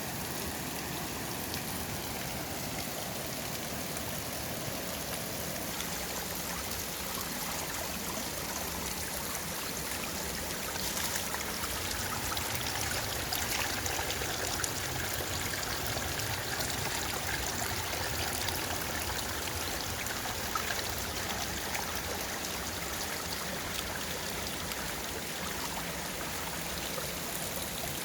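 Mountain valley stream flowing with a steady rush of water, swelling slightly louder about halfway through.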